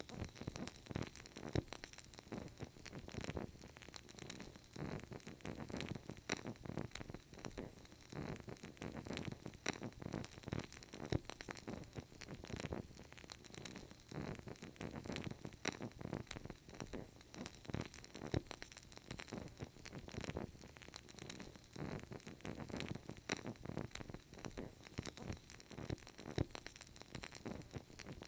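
Burning candle crackling: many small irregular pops and ticks over a faint steady hiss.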